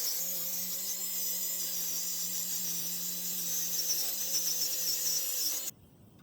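A power tool running steadily with a hissing whine, cut off suddenly near the end.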